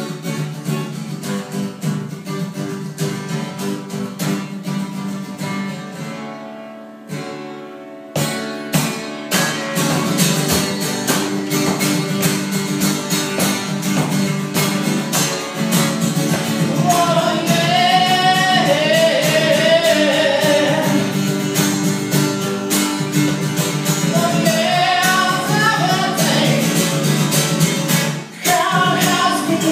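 Live solo performance: an acoustic guitar strummed, thinning out around seven seconds and coming back fuller about a second later, with a voice singing over it from about halfway.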